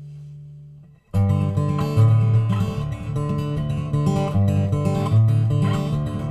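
Acoustic guitar fingerpicking a song intro in cold weather. A low held tone stops about a second in, then a steady run of picked notes begins.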